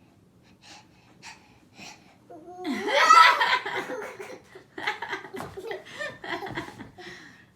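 Laughter: a few short breathy bursts, then a loud burst of laughing about two and a half seconds in that carries on in short bouts.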